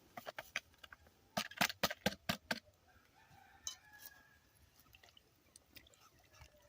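A quick run of sharp clicks and cracks over the first two and a half seconds, then a rooster crowing faintly.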